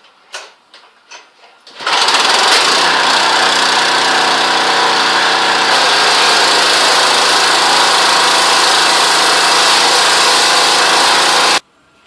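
Small-engine pressure washer running steadily, an engine hum under a loud hiss, starting about two seconds in and cutting off suddenly near the end. A few light clicks come just before it.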